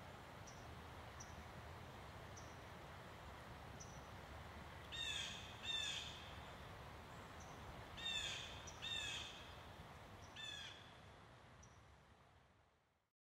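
A bird giving five short, harsh calls, two pairs and then a single, over a steady hiss, with faint, high, short chirps from a smaller bird in between. The sound fades out near the end.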